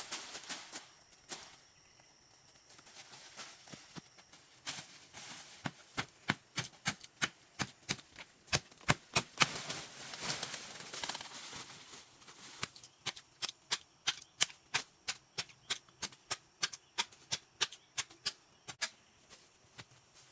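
A long run of sharp, evenly spaced knocks, about two a second, with a brief rustling stretch in the middle.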